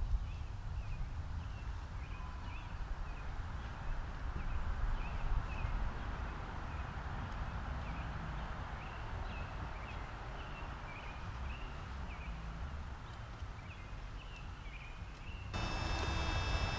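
A small bird chirping over and over in short, high notes, about one or two a second, over a steady low rumble. About a second before the end, the sound cuts abruptly to a steady hum made of several fixed tones.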